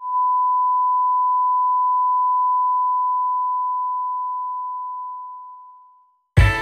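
A single long electronic beep: one pure steady tone, held for about two and a half seconds and then slowly fading out.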